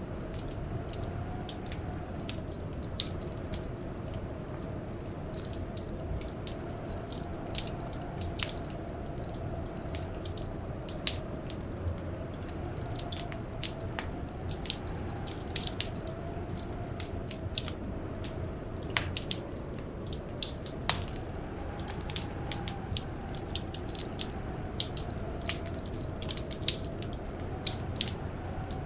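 Wood fire crackling, with sharp, irregular pops over a steady low rumble. Behind it is a faint wind howl that slowly rises and falls in pitch.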